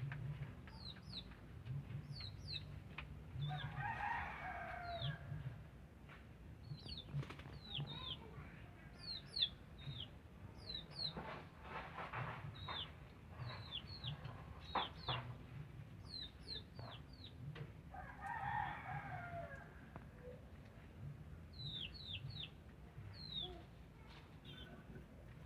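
Many short, high chirps from small birds repeating all through. A rooster crows twice, about four seconds in and again around eighteen seconds. In the middle there are quick wing flaps or rustles.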